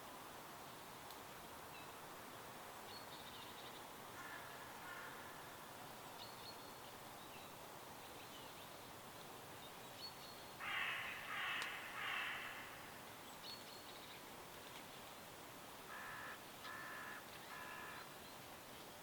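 Bird calls over a steady hiss: a bird gives harsh calls in groups of three, loudest about eleven seconds in and again near the end. Faint short high chirps from smaller birds sound in between.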